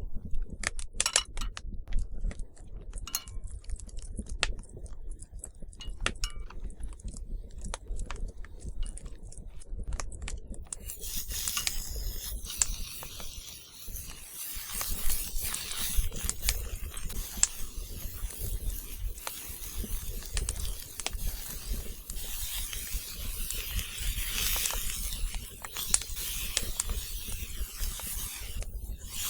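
Scattered sharp clicks and light knocks of small objects being handled. About eleven seconds in, these give way to a denser rustling and scraping with a steady hiss.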